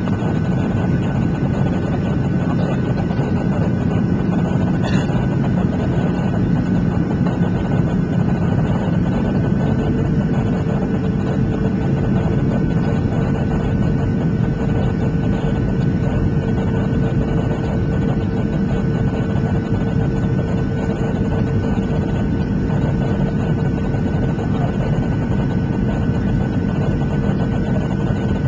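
Cabin noise inside a Boeing 737-700 in flight on its way in to land: the steady rumble of the CFM56 jet engines and airflow, with a steady whine over it. A second, lower steady tone joins about ten seconds in.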